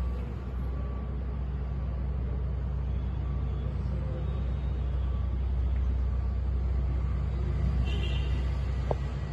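Steady low mechanical rumble with a brief higher sound about a second before the end.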